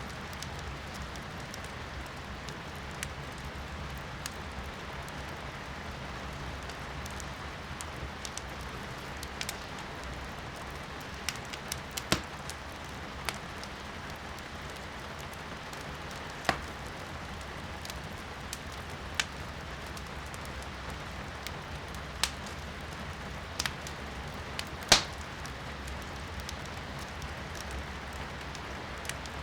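Firewood burning in a fireplace, crackling with scattered sharp pops at irregular intervals, one louder pop near the end, over a steady patter of rain heard from inside the room.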